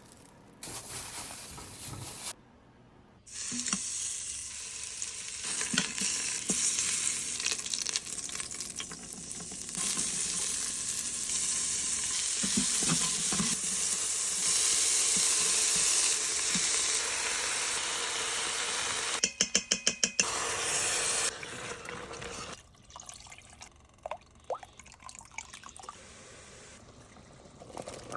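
Food sizzling and frying in a pan with stirring, a steady hiss, broken about two-thirds through by a quick run of about six sharp pulses; the sizzling gives way to quieter scattered clinks near the end.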